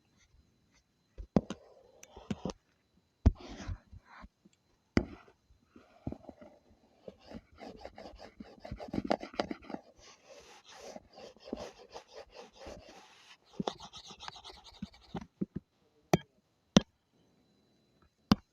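Drawing strokes: a drawing tool scratching quickly back and forth over the drawing surface, dense through the middle, with scattered sharp taps before and after.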